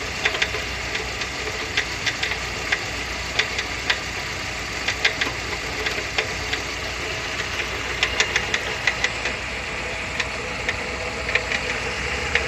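Chevrolet Niva four-cylinder engine running at idle with irregular sharp knocks and clicks from under the hood, coming in scattered clusters of several a second. The noise is the sign of a failing water pump, its bearing falling apart, likely after the drive belt was overtightened at a service.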